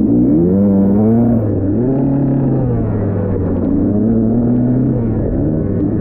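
Dirt bike engine running under a changing throttle. Its pitch rises and falls several times as the throttle is opened and closed.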